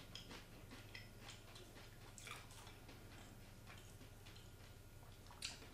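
Faint, irregular crunching of a person chewing crisp sweet coconut chips, over a low steady hum.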